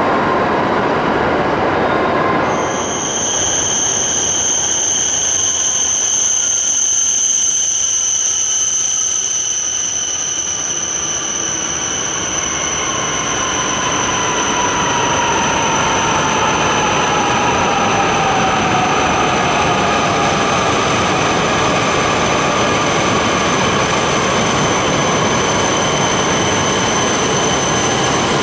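Shinkansen train running through the station: a steady rush of train noise with a high, steady whine that sets in a couple of seconds in, and a lower motor whine sliding down in pitch in the middle as the train slows.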